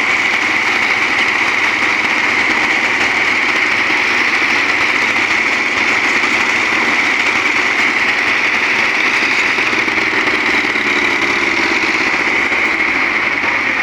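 Tractor engine running steadily and loud, without a break.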